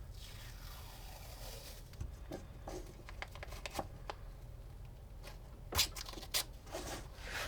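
Hands handling and marking the fan's wires: soft scratching and rustling with scattered small clicks, and a few sharper clicks near the end.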